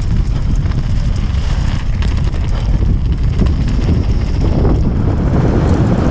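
Wind rushing over the microphone and the steady rumble of a Canyon Strive mountain bike descending a rough trail, with faint knocks from the bike over the terrain.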